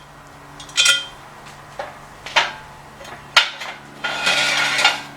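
Steel parts of an engine hoist clanking and clinking as an extension tube and bolts are fitted to its boom: four sharp metal knocks with a ringing tail, then a louder, rasping metal-on-metal clatter lasting about a second near the end.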